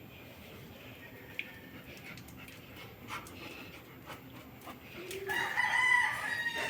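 A rooster crowing once, starting about five seconds in and lasting about a second and a half, after a stretch of faint scattered clicks.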